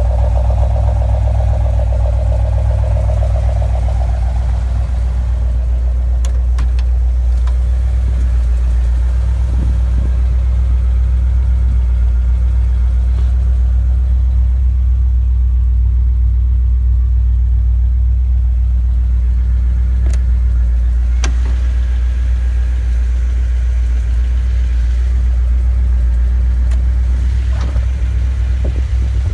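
1972 Chevrolet Corvette's V8 engine running steadily with a deep, even rumble and no revving. A higher tone sits over it for the first few seconds, and a few sharp clicks come through now and then.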